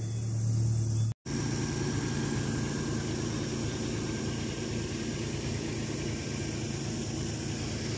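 Rebuilt Geo Metro engine idling steadily. The owner says its idle air control valve is bad. The sound cuts out for an instant about a second in, then the steady idle hum goes on.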